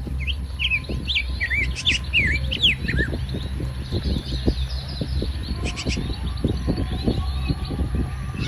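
Small birds chirping in quick rising and falling notes, most busily in the first three seconds. Irregular knocks and clicks and a steady low rumble run underneath.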